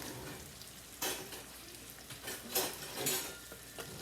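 Tilapia fillets sizzling in a frying pan, with a few short scrapes and clinks of a utensil against the pan about a second in and again near the end.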